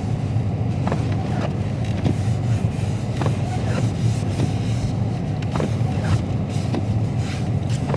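Steady low rumble of a 2022 Dodge Charger Scat Pack's 392 HEMI V8 and its tyres on a snow-covered road, heard from inside the cabin while cruising, with a few faint scattered clicks.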